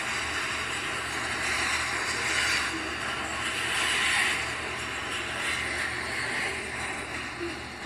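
Freight train rolling past on street-running track: a steady rush of steel wheels on rail from the last covered hopper cars, swelling a few times and fading toward the end as the train moves away.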